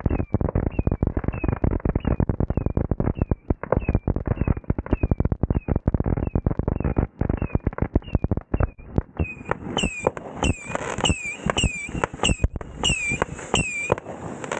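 Fireworks going off in a rapid, continuous barrage of cracks, with short falling whistles coming every fraction of a second. About ten seconds in, the whistles grow louder and a higher, shriller layer joins them.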